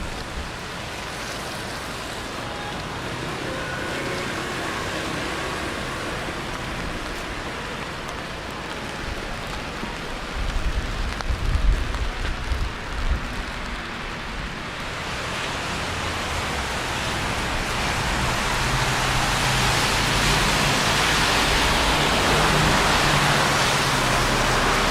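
Steady rain hiss on a wet city street, with low rumbling bumps around the middle. In the second half the hiss swells louder with a low hum under it, like traffic on the wet road.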